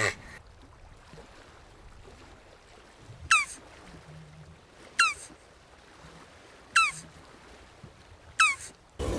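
An animal calling four times, evenly about a second and a half apart, each call a short, sharp note falling in pitch.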